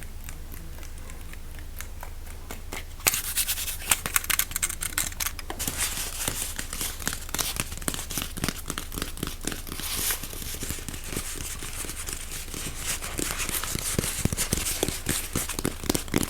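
Close-miked crinkling and scratching of a crinkly material, fast and dense, starting about three seconds in.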